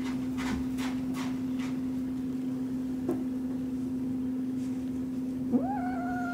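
Steady low hum, like a fan or appliance running, with a few faint clicks. Near the end a higher tone rises and then holds.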